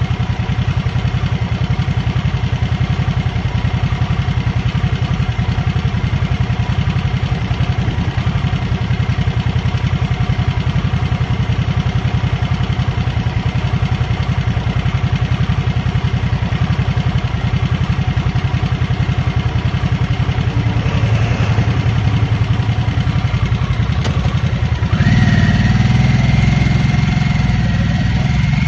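2023 Harley-Davidson Nightster's V-twin engine running steadily while cruising. About 25 seconds in it gets louder, and near the end its pitch starts to rise as it pulls harder.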